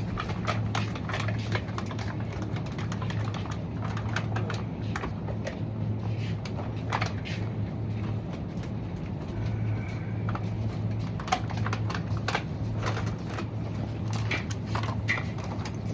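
Heeled boots clicking on a hard shop floor in an irregular string of sharp taps, over a steady low hum.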